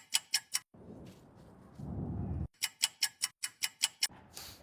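Ticking clock sound effect, about five quick ticks a second, in two runs broken by a stretch of low rumbling, with a short whoosh near the end.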